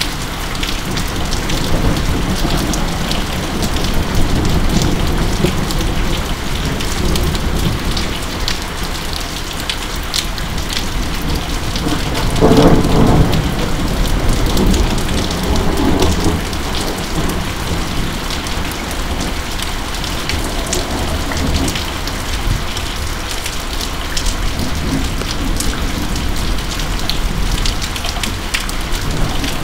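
Steady rain falling hard in a thunderstorm, with scattered sharp drop clicks, and a rumble of thunder swelling up about halfway through and fading over a few seconds.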